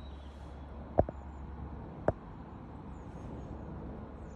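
Two sharp knocks about a second apart, over a steady low rumble.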